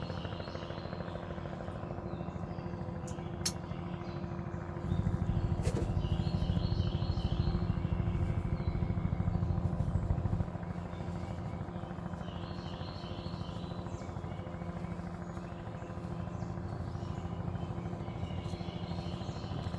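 News helicopter hovering overhead: the rapid, steady beat of its rotor blades with a steady engine hum, growing louder for about five seconds from around five seconds in.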